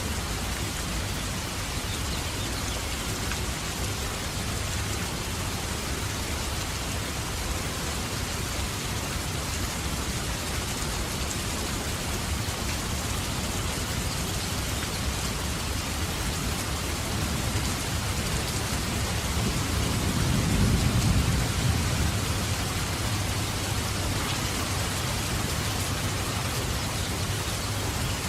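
Steady rain falling in an even hiss, with a low rumble of thunder that swells about two-thirds of the way through and fades a few seconds later.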